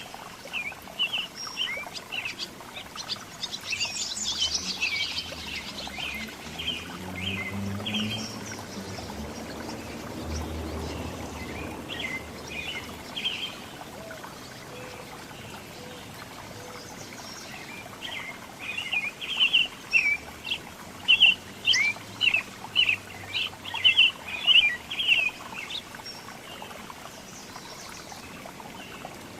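Small songbirds chirping in rapid runs of short, high calls: one long run early and a second, louder run in the second half. A steady hiss continues underneath.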